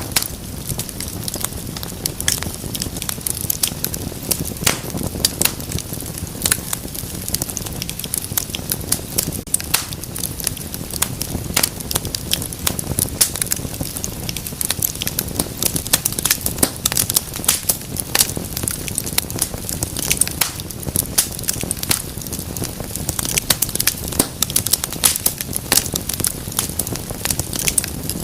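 Wood fire burning in a fireplace: constant irregular sharp crackles and pops over a low, steady rumble of flame.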